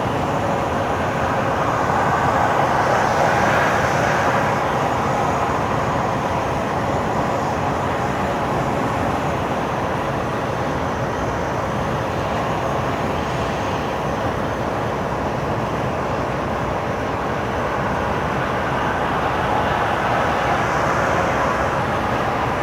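Steady road noise of a moving vehicle: tyre and engine noise with no breaks, swelling slightly twice.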